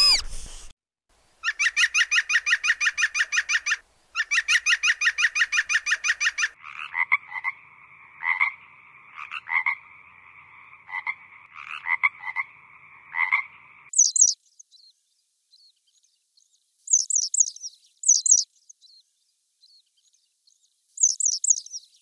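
A series of separate animal calls: two long, fast pulsing trills, then a two-toned call that swells about once a second, then clusters of short, high chirps.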